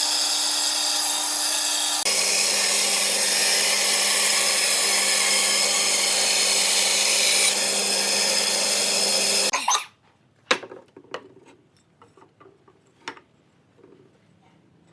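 An electric power tool running steadily on wood, with a steady hum that jumps to a different pitch about two seconds in. It cuts off about two-thirds of the way through, leaving a few light knocks and taps.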